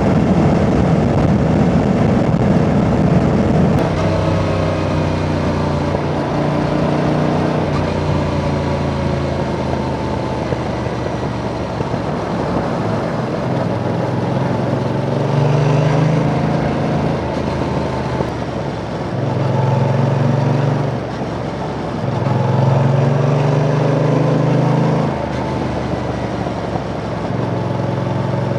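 Yamaha Tracer 7's 689 cc parallel-twin engine under way, its note rising under throttle several times and dropping back between, over a steady rush of wind and road noise.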